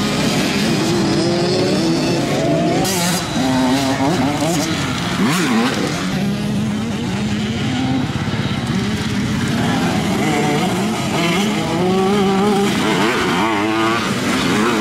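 Several small two-stroke motocross bikes racing together, their engines revving up and down in overlapping pitches.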